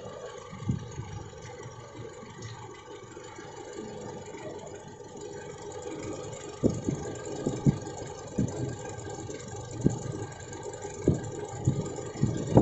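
Toyota Innova's 1TR four-cylinder petrol engine idling, with short low thumps at uneven intervals, most of them in the second half. The engine has a misfire that makes it shudder.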